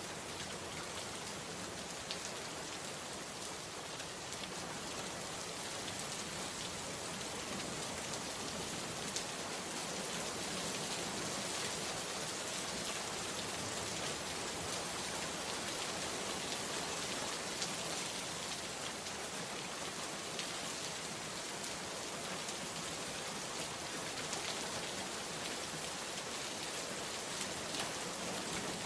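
Steady rain falling, with the patter of many drops striking a surface.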